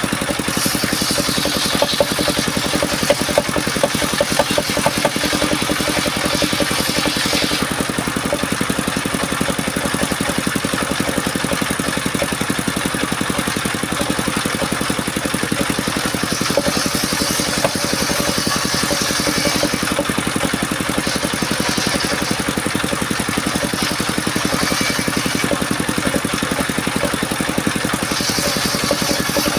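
Engine of a portable circular-saw sawmill running steadily, with a higher hiss that comes and goes for a few seconds at a time as the blade works through mahogany.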